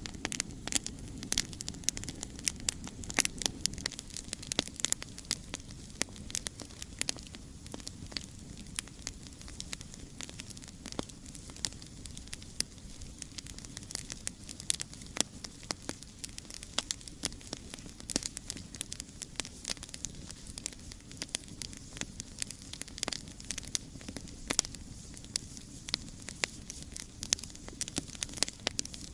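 Campfire burning, with frequent irregular sharp crackles and pops over the steady low rumble of the flames.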